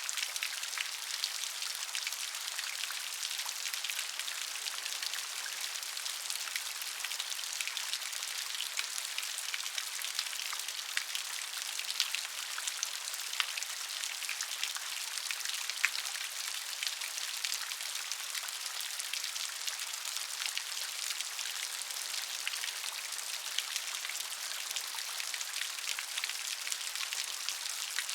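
Steady gentle rain: an even, high hiss of falling rain with many small, sharp drop ticks scattered all through it.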